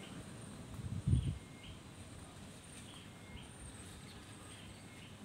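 A bird chirping in the background, short chirps in pairs about every second and a half, with a low thump about a second in.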